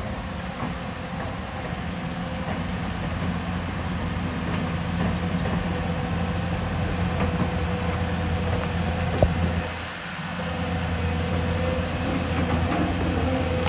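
Hyundai excavator's diesel engine running steadily under work, with one sharp metallic click about nine seconds in and a brief dip in engine level just after.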